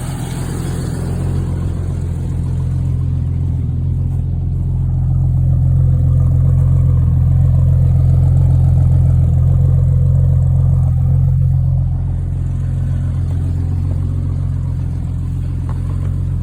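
1989 Jeep Cherokee's 4.0-litre inline-six idling just after a cold start, swelling a little louder and then settling back about twelve seconds in. Still cold, it sounds pretty much normal, without the knock it develops once warmed up.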